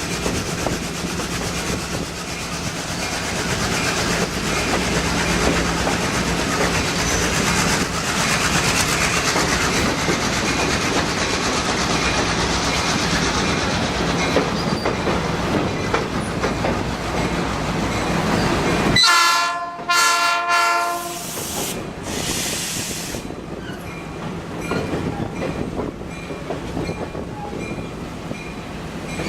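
Passenger train running on the rails, a steady rumble, then the locomotive's horn sounds for about two seconds roughly two-thirds of the way through.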